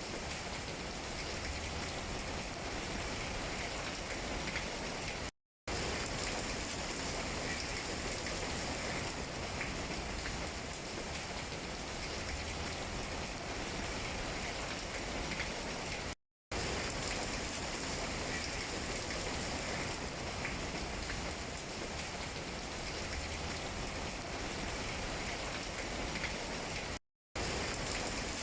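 Steady rain falling on tree leaves, a dense patter with scattered single drop taps. The sound cuts out to silence for a split second three times, about eleven seconds apart.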